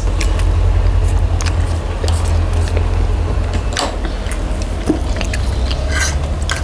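Close-miked chewing and mouth sounds from people eating, with many short sharp clicks and smacks scattered through, over a steady low rumble.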